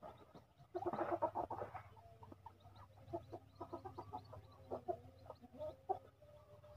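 Soft, faint clucking calls from birds, a quick cluster about a second in and then scattered short calls.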